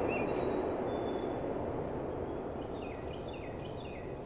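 Steady outdoor background noise, slowly fading, with a bird chirping: a few thin high notes early on, then a quick run of about four falling chirps in the second half.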